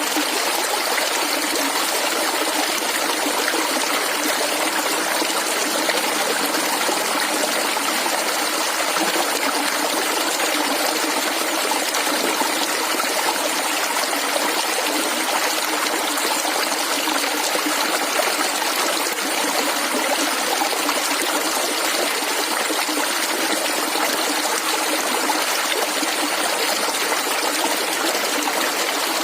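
Shallow stream of water gurgling and trickling steadily.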